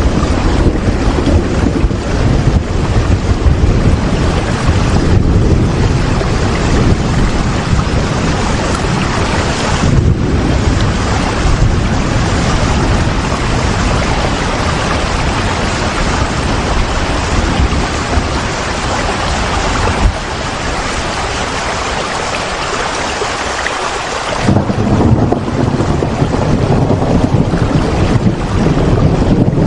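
Steady heavy rain, a dense even hiss with a deep rumble underneath. The rumble fades for a few seconds about two-thirds of the way through, then comes back suddenly.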